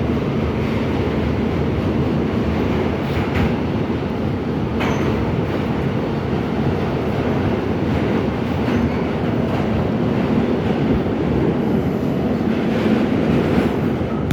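R68 subway car running on the rails: a steady, heavy rumble of wheels on track, with a few sharp clicks from rail joints.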